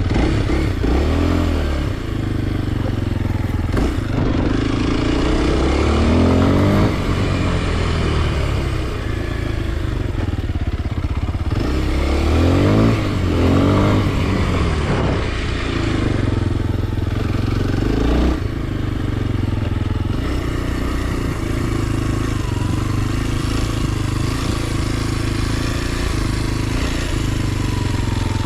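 Kawasaki KLX230 SM's single-cylinder four-stroke engine running under way. The revs climb and drop several times in the first half, then hold steadier near the end.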